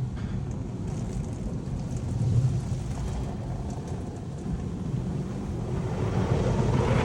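Automatic tunnel car-wash machinery heard from inside the car's cabin: a steady low rumble, with a hiss of water or soap spray on the car building near the end.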